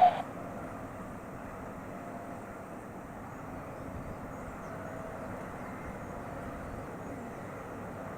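An air traffic control radio transmission cuts off right at the start, leaving faint, steady airport background noise with a low hum.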